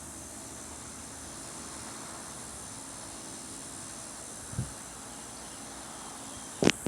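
Steady background hiss with a faint low hum, broken by a soft bump about four and a half seconds in and a sharp click near the end.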